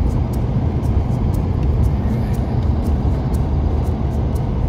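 Jeep Wrangler driving through deep snow: a steady low rumble of engine and tyres, with a light, even ticking of about three or four ticks a second.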